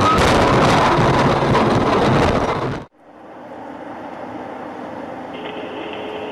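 Loud rushing noise with rapid rattling knocks for about three seconds that cuts off abruptly, followed by the steady, quieter hum of a vehicle driving.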